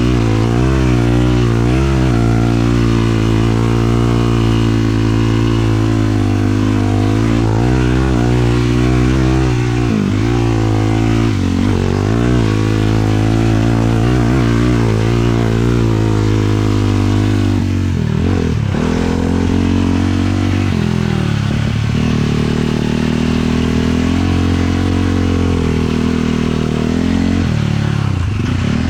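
Single-cylinder 450 sport quad engine running under way, its pitch rising and falling with the throttle. The revs drop briefly and climb back several times.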